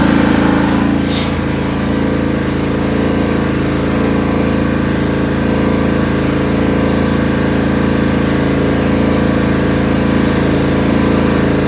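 Riding lawn tractor's small gasoline engine running at a steady speed, its note unchanging throughout.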